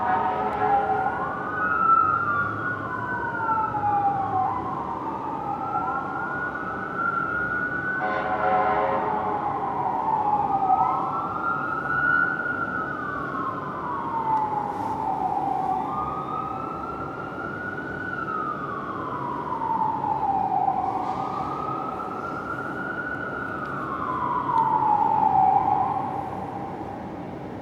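Fire apparatus sirens wailing, a slow rise and fall about every six seconds, two sirens overlapping in the first half and one carrying on later. Short horn blasts sound near the start and again about eight seconds in.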